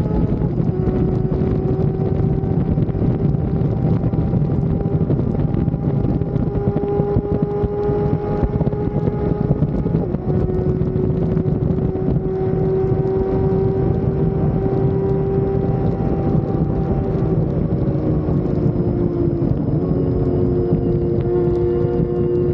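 Sport motorcycle engine running at a steady cruise, its pitch drifting a little as the speed changes, with wind rushing over the microphone. Near the end one engine note falls while another rises.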